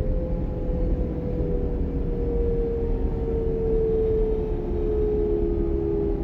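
Class 425 electric multiple unit heard from inside while running, a steady rumble of wheels and running gear under a traction-motor whine that slowly falls in pitch as the train slows. A second, higher whine comes in near the end.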